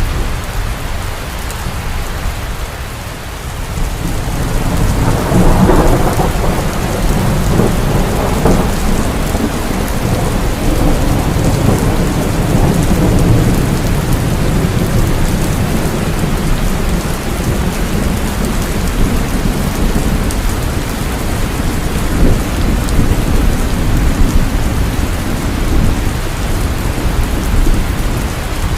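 Heavy rain falling steadily, with rolling thunder that swells about five seconds in and then rumbles on low under the rain.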